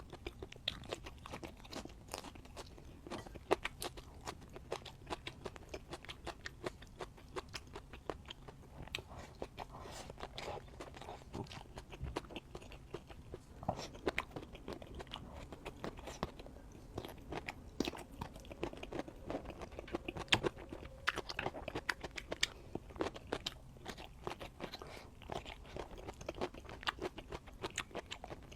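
A person eating, crunching and chewing mouthfuls of food with many irregular crisp bites and chews.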